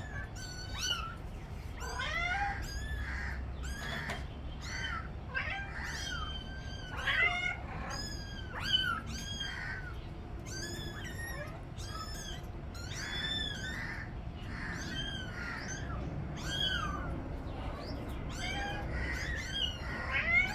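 Young kittens meowing over and over in short, high, thin cries, several calls a second at times: hungry kittens crying for food.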